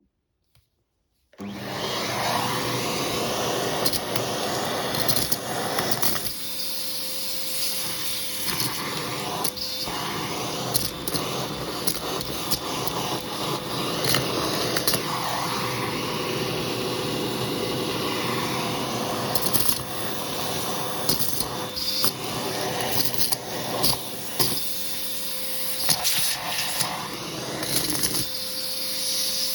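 Hoover vacuum cleaner switching on about a second and a half in, then running steadily with a faint steady whine. A hand tool is worked over a shag rug, so the suction noise swells and dips, and the tool clicks and knocks against the pile.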